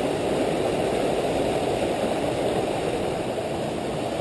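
Waterfall, falling water rushing in a loud, steady, even noise.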